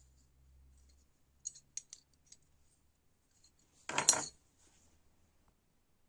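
A few light clicks of small hard parts being handled, then a brief, louder metallic clatter about four seconds in.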